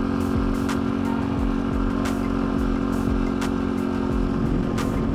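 Dirt bike engine running at a steady speed while being ridden, its pitch holding level, with a few scattered knocks.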